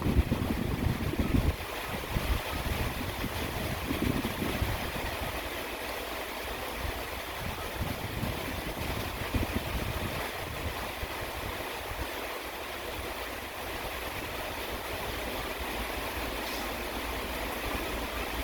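Steady rain hiss, with a low rumble for about the first second and a half and again briefly about four seconds in.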